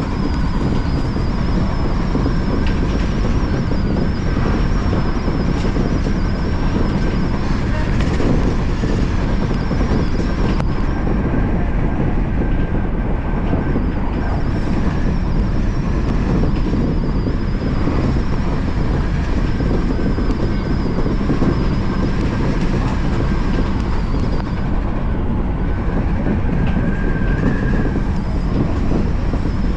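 Odakyu Line commuter train running along the track: a steady rumble of wheels on rail, with a thin high whine held over it.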